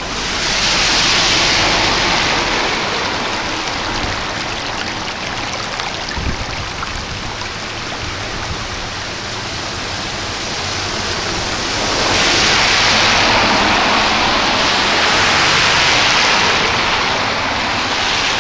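Heavy rain shower: a dense, steady hiss of rain falling and splashing. It swells louder briefly at the start and again for several seconds from about two-thirds of the way through.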